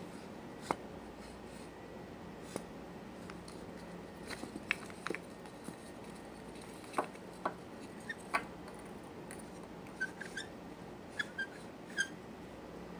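Scattered sharp clicks and a few short, high squeaks over a steady background hiss, the squeaks clustering in the last few seconds.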